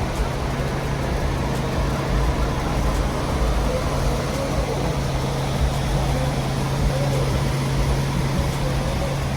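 A motor vehicle's engine running steadily, a constant low hum under a wash of outdoor noise.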